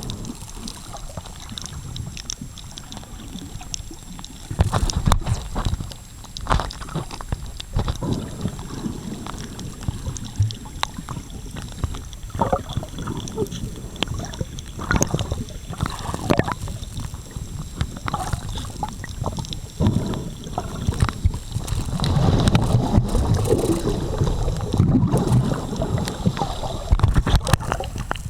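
Sea water sloshing and gurgling around the camera in irregular bursts, with a low rumble that grows busier in the last few seconds.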